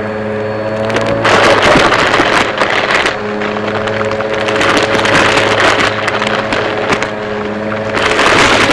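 Vacuum cleaner running with a steady motor hum, swelling into louder rushing airflow about a second in and again near the end.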